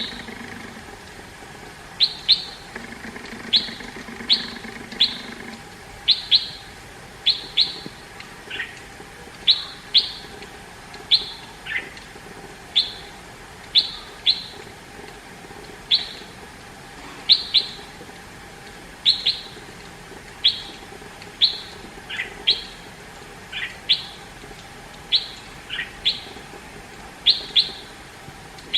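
Red-whiskered bulbul calling: short, sharp high notes repeated about once a second, sometimes in quick pairs, a few of them sliding down lower.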